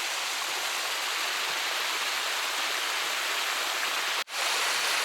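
Loud, steady rush of falling water from a creek waterfall, cutting out for an instant about four seconds in.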